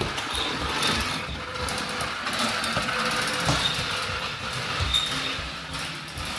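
Battery-powered toy vehicle running on its plastic track: a steady motor-and-wheel rattle with a few light clicks.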